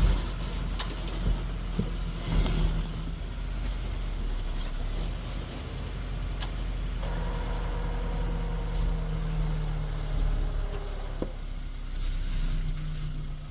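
Safari vehicle's engine idling steadily, with a few light clicks and knocks.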